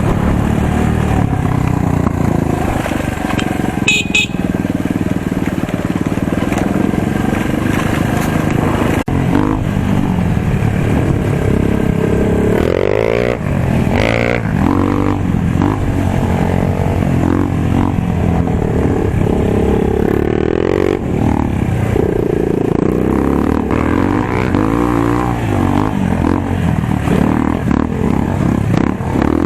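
Motocross bike engine running loud throughout, its pitch rising and falling again and again as the rider works the throttle around the dirt track.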